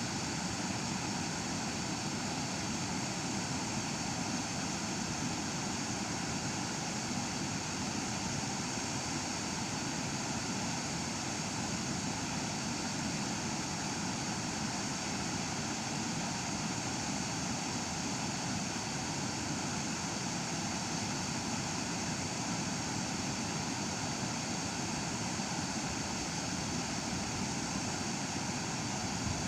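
Waterfall: water pouring and splashing in a steady, unchanging rush of noise.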